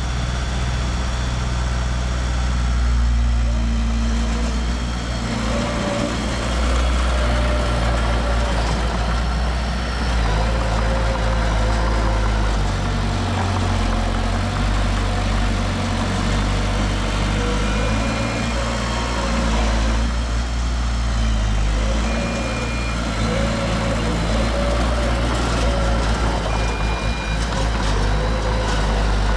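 Heavy diesel construction machinery running steadily, its engine pitch wavering as it works under load. A few short, high beeps sound in the second half.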